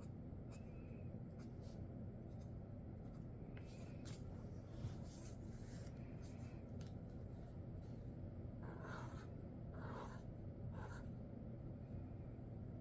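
Sharpie Creative Marker tips drawing on paper: a string of short strokes and taps, with a few slightly longer strokes about three quarters of the way in.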